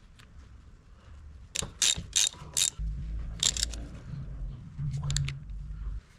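Ratchet wrench being worked in short bursts, sharp metallic clicks, most of them about one and a half to three seconds in, with a low steady rumble underneath from about three seconds in.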